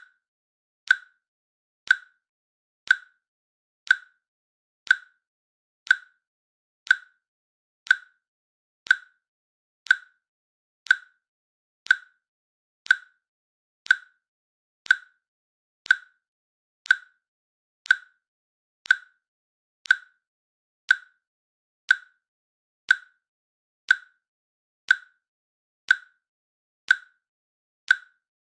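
Timer click sound repeating once a second, evenly and steadily: each a short, sharp tick with a brief high ring, with silence in between, counting down the seconds.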